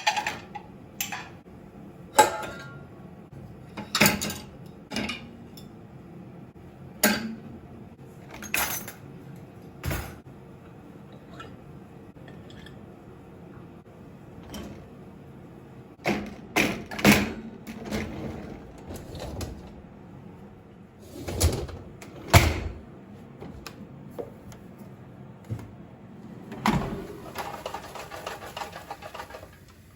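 Household objects being handled: scattered knocks and clinks, with a faint steady hum underneath and a few seconds of hiss near the end.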